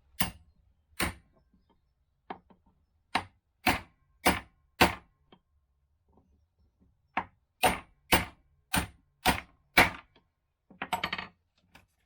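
A dozen or so sharp hammer strikes, about one every half second in two runs with a pause between, then a quick clatter near the end: the freshly greased wheel bearings being driven back into the front wheel hub of a 1979 Honda Monkey Gorilla.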